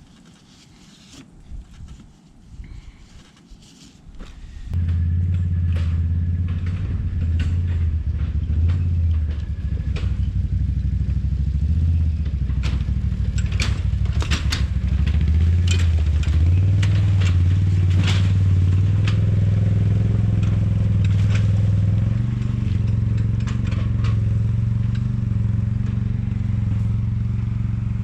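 ATV engine starting up about five seconds in and running, its pitch rising and falling as it drives, with clattering and knocks from the machine and its load over it. Quieter handling noises come before it.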